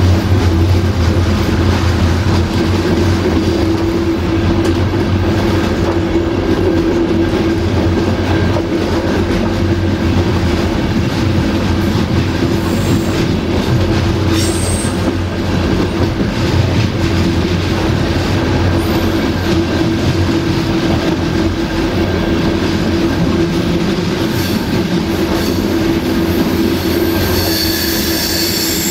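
Passenger train carriage running along the track: a steady rumble of wheels on rail with a constant low hum. There is a brief high squeal about halfway through, and a wheel squeal with several high tones sets in near the end.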